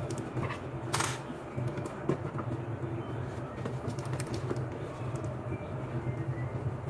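Scattered sharp clicks and knocks of a screw and TV parts being handled and fitted, the loudest about a second in, over a steady low hum.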